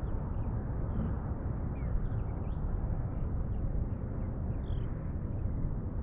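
Outdoor ambience: a steady high insect drone with scattered short bird chirps over a low, even rumble.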